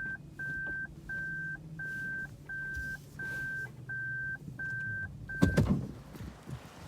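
A high electronic beep repeating about one and a half times a second over a low hum, stopping with a loud knock about five and a half seconds in.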